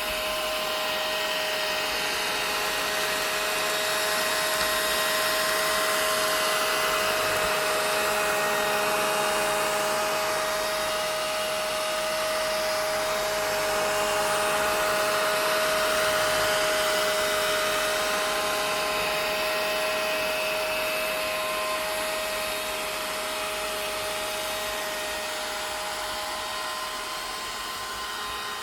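Vacuum cleaner running steadily: a rush of air with a steady motor whine, slightly louder through the middle and easing off near the end.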